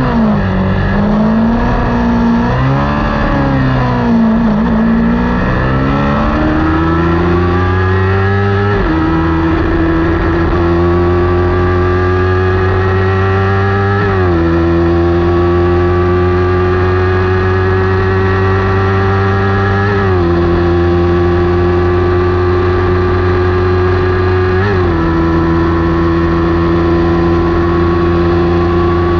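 Kawasaki Ninja 400's parallel-twin engine racing at full throttle. The pitch falls and wavers over the first several seconds as the bike slows and turns, then it pulls hard with the pitch climbing steadily, dropping briefly at each of four upshifts about five seconds apart.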